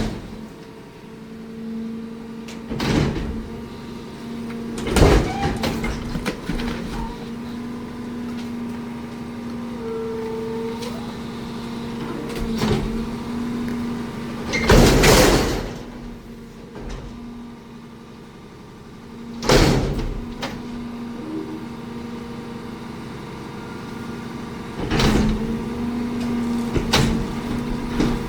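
Garbage truck running with a steady engine and hydraulic hum, broken every few seconds by loud metallic bangs and clanks as it collects and dumps refuse.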